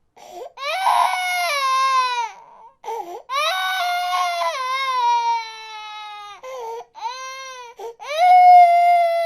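Infant crying: about four long wailing cries, each falling in pitch, with short catching breaths between them. The last cry, near the end, is the loudest.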